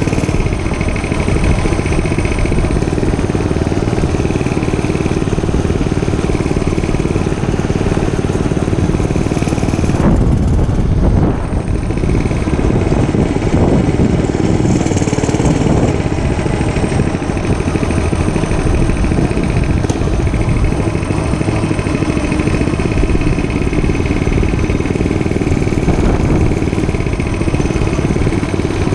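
Dirt bike engine running under way as it is ridden, with a change in the engine note about ten seconds in.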